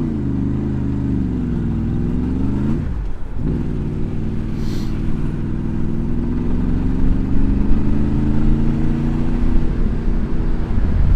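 Honda VFR V4 motorcycle engine running under throttle. About three seconds in its sound drops out briefly as the revs fall away, then the pitch climbs slowly and steadily as the bike pulls.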